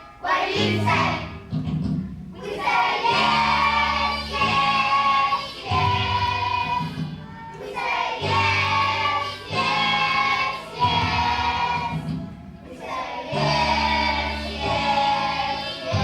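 Children's choir singing with musical accompaniment, in sustained phrases over a bass line that changes every two to three seconds.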